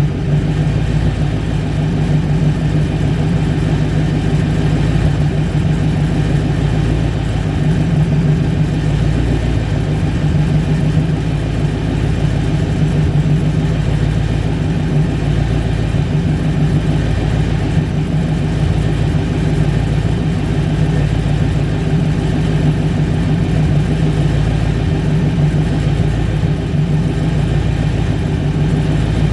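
Small-block Chevy V8 with a Holley carburetor running steadily on an engine run stand.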